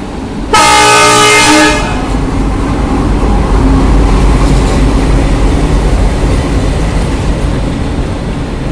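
Train horn sounding one loud blast of about a second, followed by the steady low rumble of the train rolling into the station.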